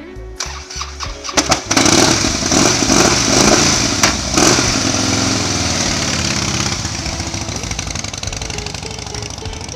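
A Harley-Davidson motorcycle's V-twin engine is started and catches about a second and a half in. It is revved a few times, then the bike pulls away and its engine sound slowly fades.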